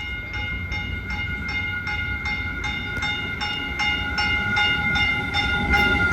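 Caltrain passenger train pulling into the station with a low rumble, while a railway bell rings steadily about four strokes a second.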